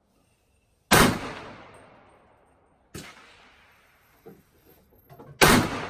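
AR-15 rifle shots fired while zeroing the sight: two loud cracks about four and a half seconds apart, each with a long echoing decay, and a weaker shot between them. A few light clicks come just before the last shot.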